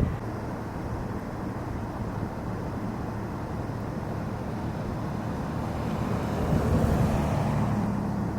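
A vehicle engine humming steadily amid traffic on a snowy road, with a passing vehicle's tyre noise swelling and fading near the end.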